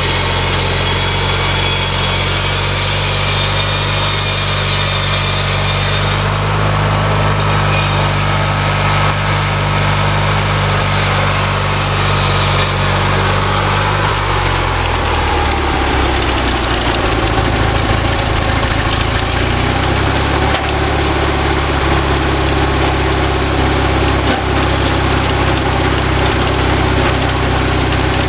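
Homemade sawmill running on a small lawnmower engine, a steady engine drone. About halfway through, the engine's pitch drops over a second or two and settles lower.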